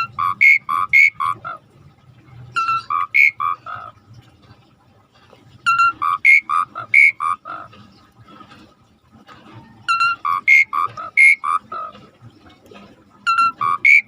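Asian pied starling (jalak suren) singing in full voice: a phrase of several short, clear whistled notes, repeated about every three to four seconds.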